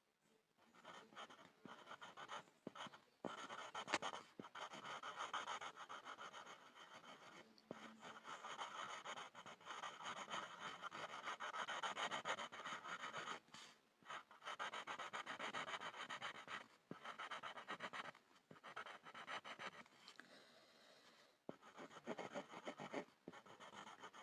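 Pencil scribbling on a board: fast back-and-forth scratching strokes with a few short pauses, the longest near the end.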